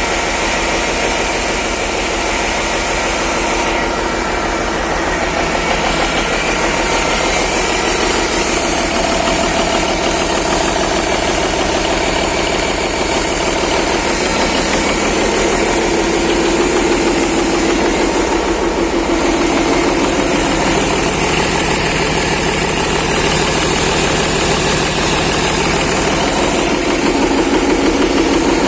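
Cummins NT855 inline-six diesel running steadily, freshly rebuilt after a major overhaul.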